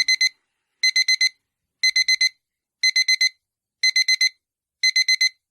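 Alarm clock beeping: a high-pitched beep-beep-beep-beep, four quick beeps in a burst, repeated about once a second.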